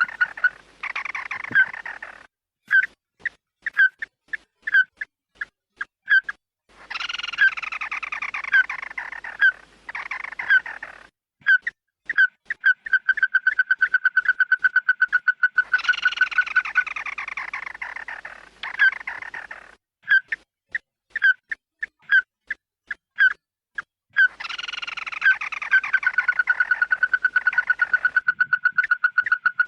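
Bird calls: harsh, chattering calls in spells of two to four seconds alternate with clear whistled notes, either single notes about half a second apart or quick runs of several a second. This is a repeated call recording used to lure the bird the uploader calls chim mắt đỏ.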